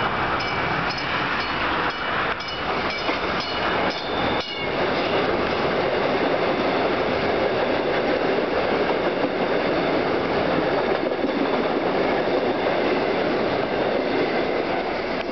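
South Shore Line six-car electric multiple-unit express train running through the station at speed without stopping. A run of sharp clicks over the first few seconds gives way to a loud, steady rush of wheels on rails as the cars pass close by.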